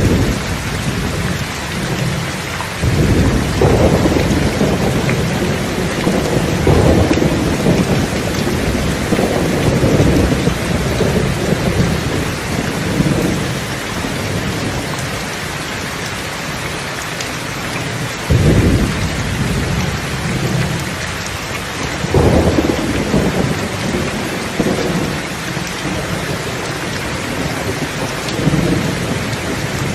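Steady heavy rain with rolling thunder: low rumbles swell and fade several times, with a sharper crack about 18 seconds in and again about 22 seconds in.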